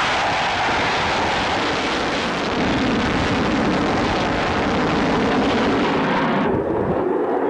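Boeing F/A-18 Super Hornet's twin jet engines, loud and steady as it flies its display. About six and a half seconds in the high hiss cuts away, leaving a lower rumble.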